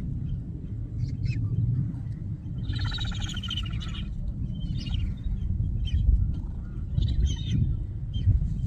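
Birds calling over a steady low rumble: one call lasting about a second about three seconds in, and shorter calls around five and seven seconds in.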